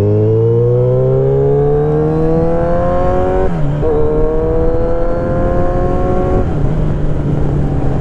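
Kawasaki Z900 inline-four engine accelerating, its pitch climbing steadily. It drops sharply at an upshift about three and a half seconds in, climbs again, then falls back to a steady drone near the end, over wind noise.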